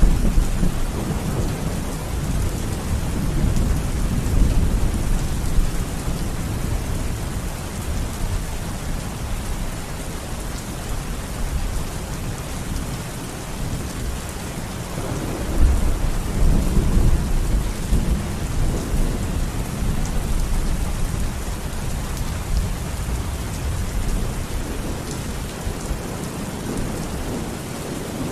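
Steady rain falling, with thunder rumbling low: one rumble fading over the first few seconds and another swelling up about halfway through.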